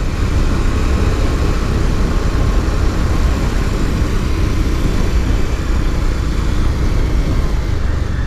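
Motorcycle on the move: steady wind rush over the microphone with engine and road rumble underneath.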